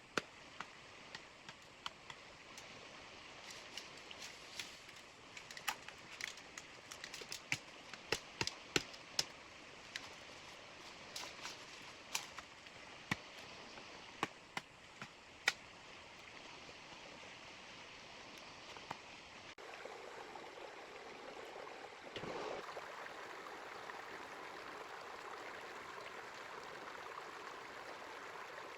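Small river flowing steadily, with many irregular sharp clicks and knocks over it for the first two-thirds. Then the water becomes louder and fuller, with a single thump just before.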